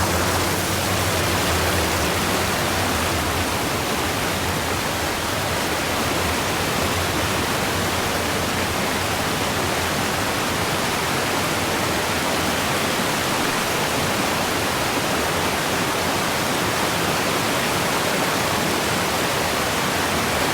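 Mountain creek rushing over rocks, a steady, even rush of water.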